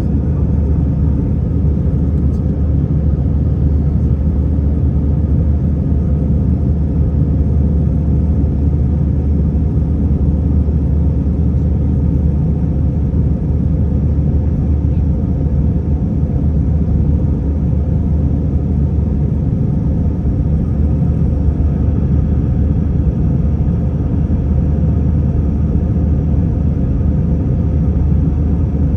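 Airliner engines running with a steady, loud low rumble, heard inside the passenger cabin.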